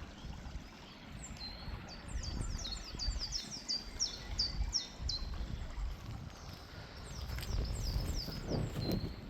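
A small songbird singing a rapid string of high, quickly falling chirps. One run lasts from about a second in to nearly five seconds, and a shorter run comes near the end, over a low rumble.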